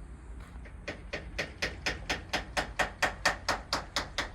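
A hammer tapping on metal in a quick even run, about four strikes a second, starting about a second in and growing louder toward the middle.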